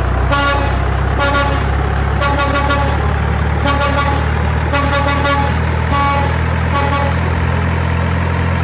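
Semi truck running with a steady low engine drone while its horn sounds about eight short honks, roughly one a second.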